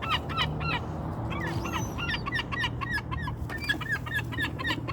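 A flock of gulls calling in quick, short squawks, several birds at once, as they squabble over scraps of trash. A low steady hum runs underneath.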